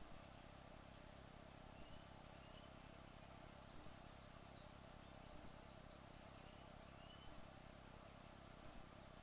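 Near silence: a steady low hiss with a few faint, high-pitched chirping trills in the middle and soft ticks every second or two.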